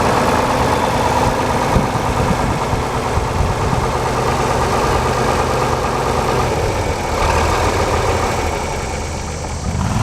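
1973 John Deere 4230's six-cylinder diesel engine idling steadily.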